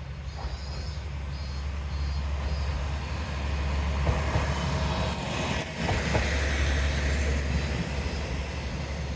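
Tarumi Railway diesel railcar running past on the track: a steady low engine and rail rumble that builds to its loudest in the middle, with a few sharp clicks from the wheels around the middle. Insects chirp in short pulses during the first few seconds.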